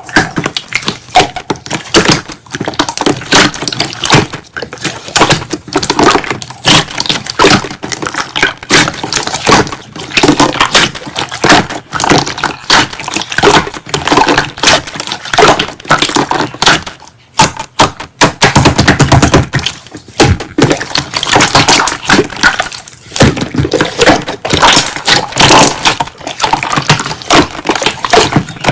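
Hands squishing, poking and stretching slime, giving rapid, irregular wet clicks, pops and crackles with a few short pauses.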